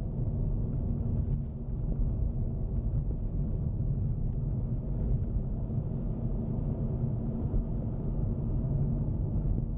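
Steady low rumble of a car driving, heard from inside the cabin: engine and tyre noise from the road.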